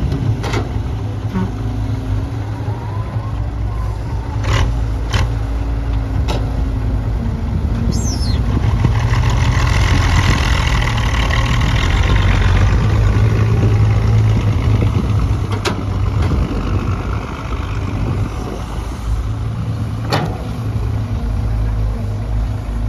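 Heavy diesel construction machinery running with a steady low rumble. The noise swells for several seconds around the middle as the machine works harder, and sharp knocks and clanks sound now and then.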